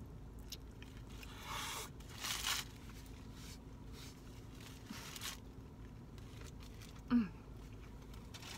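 A person chewing a big mouthful of burger close to the microphone, with a few short crunchy, crackly bursts and a brief falling "mm" near the end, over a faint steady hum.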